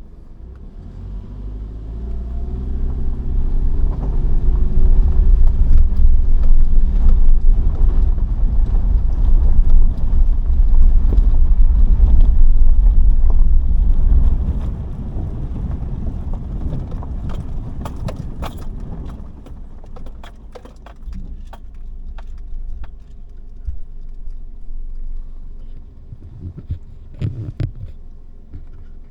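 A car being driven, with a heavy engine and road rumble whose pitch climbs as it accelerates early on. The rumble drops off about halfway through, leaving a quieter run broken by scattered knocks and rattles.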